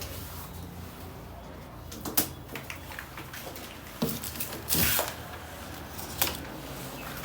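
Handling noises from unpacking a copier: a few sharp knocks and a short rush of rustling packaging about five seconds in.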